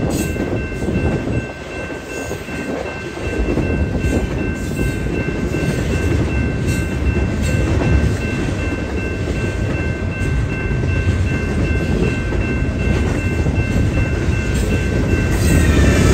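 Train rolling past at close range: a steady, loud rumble of wheels on rail, with repeated clicks as the wheels cross rail joints.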